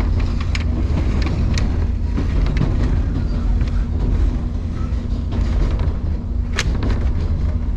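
Electric train running: a steady low rumble with a steady hum, and scattered clicks and knocks from the wheels on the track. There is one sharp knock about six and a half seconds in.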